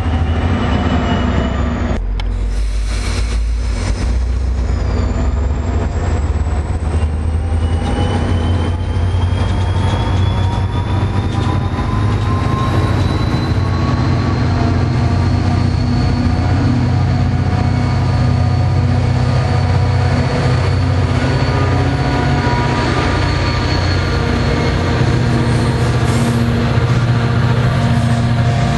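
New Jersey Transit diesel push-pull commuter train running past and pulling away: a steady loud diesel hum with wheel and rail noise, and whines that rise in pitch over the first several seconds as the train gathers speed, then hold steady.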